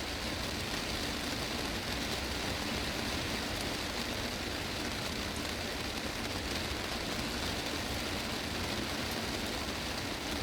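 Heavy rain drumming steadily on a greenhouse's glass roof, a dense, even patter with no breaks.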